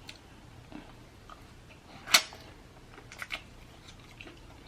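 Someone eating: quiet chewing and small mouth clicks, with one sharper smack about two seconds in and a couple more a little after three seconds.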